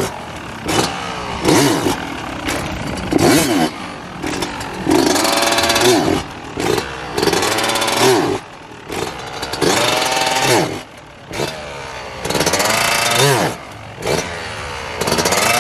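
Dirt bike engine being revved in a series of short throttle bursts, each rising and falling in pitch, dropping back to a lower running note between them: the throttle pops used to lift the front wheel into short wheelies.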